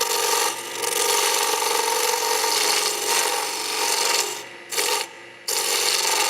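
Wood spindle spinning on a lathe while a turning chisel cuts into it, taking it down to a marked 3/4-inch diameter. The cut is a steady rasping hiss over the lathe's hum, and it breaks off twice near the end as the tool comes off the wood.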